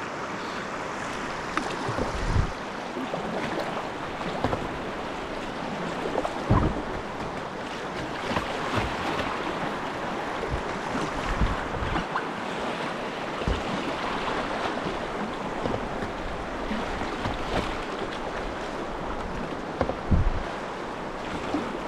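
Rushing whitewater splashing around a kayak as it runs a river rapid: a steady wash of moving water, broken by occasional low thumps.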